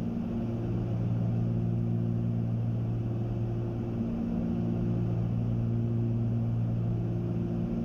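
Cabin drone of a Cessna 310Q's twin piston engines and propellers, heard as a steady low hum with a few held tones.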